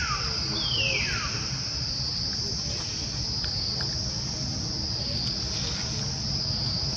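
Steady, high-pitched drone of insects in tropical forest. Near the start come two quick falling whistled calls, about a second apart, over a low rumbling noise.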